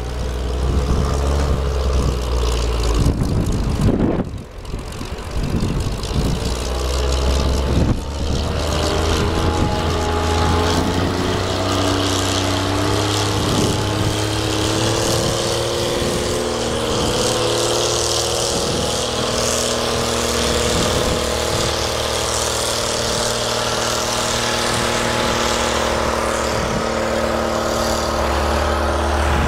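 An engine running, its pitch climbing slowly for several seconds and then holding steady, over a constant low hum and a windy hiss.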